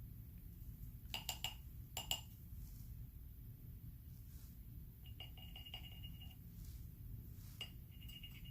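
Faint clinks of small hard objects, a few in quick succession about a second in and again about two seconds in, over a low steady hum.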